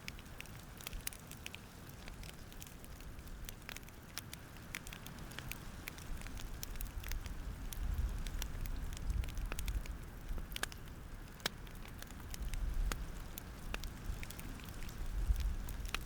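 Wood fire crackling: scattered sharp pops and snaps of burning wood over a soft hiss, with a low rumble of the flames that swells a few times.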